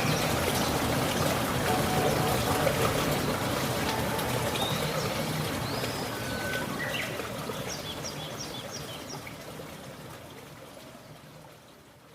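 Running water, a steady trickling stream, with birds chirping over it, including a quick run of high chirps about midway. The whole sound fades away gradually over the last several seconds.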